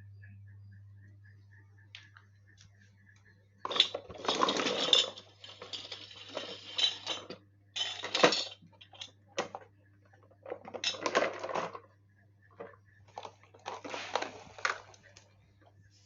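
Clattering and rattling of small hard objects in repeated bursts of a second or two, starting about four seconds in.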